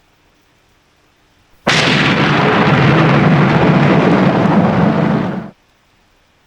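A loud thunderclap breaks in suddenly about two seconds in, rumbling for about four seconds before cutting off abruptly, over faint steady rain.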